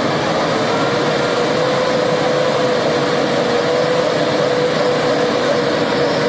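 Hino truck's diesel engine held at high, steady revs, a whining note rising slightly about a second in and then holding: the truck is straining to pull free of deep mud.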